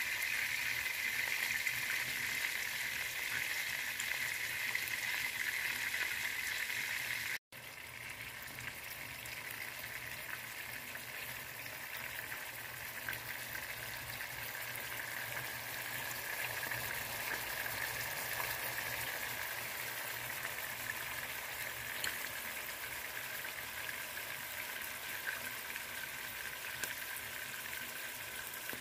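Pork meatballs frying in oil in a nonstick pan: a steady sizzle. The sound drops out for an instant about seven seconds in and is a little quieter after it.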